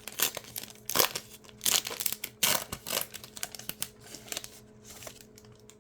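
Plastic wrapper of a Topps basketball card pack being torn open and crinkled by hand: a run of irregular crackles and rustles that thins out near the end.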